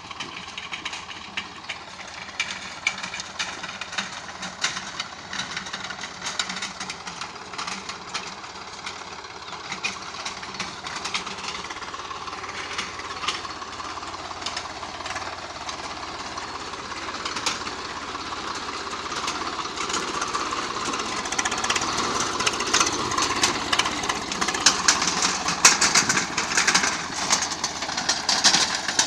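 Swaraj 744 FE tractor's diesel engine running steadily at around 1000 rpm while pulling an 11-tine tiller, with a dense metallic clatter over the engine note. It grows louder over the last several seconds.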